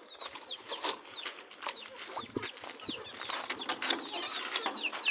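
Many chicks peeping together, a constant stream of short, high calls that slide downward in pitch, with scattered clicks and rustles among them.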